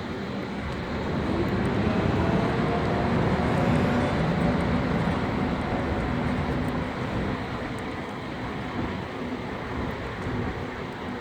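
A motor running with a low drone and a few humming tones. It swells to its loudest about three to four seconds in, then slowly eases off.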